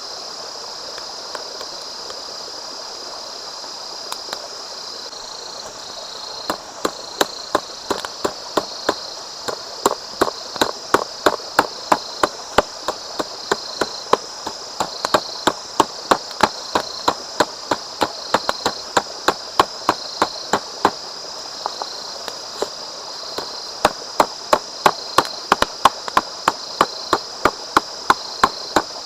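Knife chopping on a cutting board, in a quick, steady rhythm of about two to three chops a second that starts several seconds in and pauses briefly now and then.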